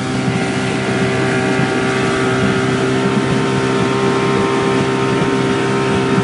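Speedboat's outboard engine running steadily at speed, with wind on the microphone.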